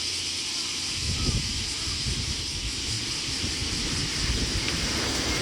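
Wind buffeting the microphone in irregular low gusts, over a steady high hiss.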